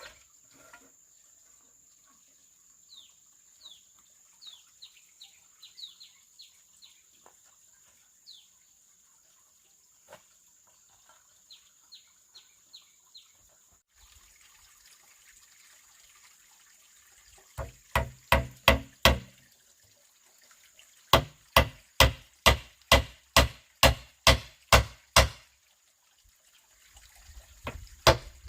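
Birds chirping faintly over a steady high insect drone, then, from about two-thirds of the way in, loud rapid strikes of a tool on bamboo, about three a second, in two runs with a short pause between.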